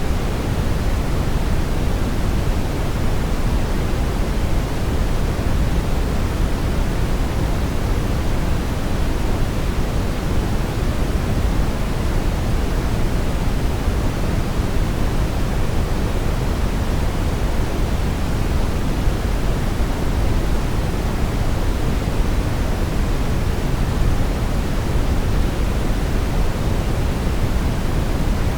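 Steady, unchanging brown noise: a continuous deep rushing hiss, strongest in the low end and fading toward the highs.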